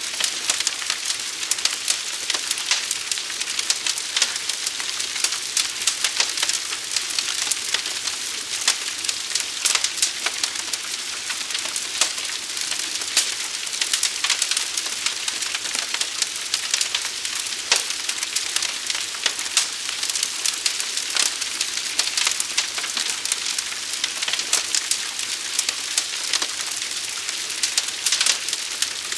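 Fire burning steadily, with dense crackling and snapping over a constant hiss.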